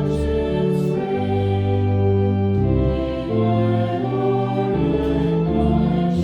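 Church music of held chords that change every second or so, with some singing faintly audible.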